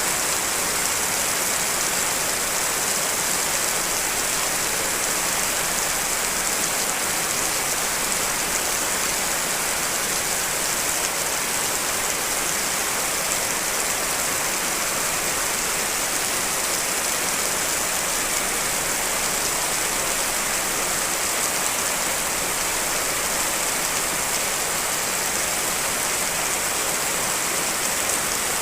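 Steady rain: a dense, even hiss of many drops with no single drop standing out, strongest in the high range.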